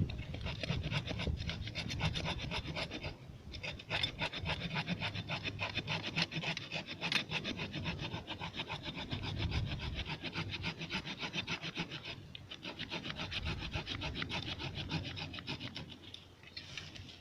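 Saw cutting through wood in quick, steady back-and-forth strokes, with short pauses about three seconds in and again about twelve seconds in.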